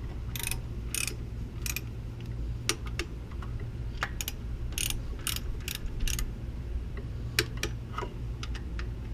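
Ratchet or torque wrench tightening bolts to their torque spec: short, irregular runs of ratcheting clicks throughout, over a steady low hum.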